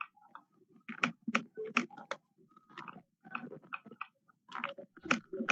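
Irregular tapping clicks, a few a second, like keys or a pen being pressed while a figure is worked out.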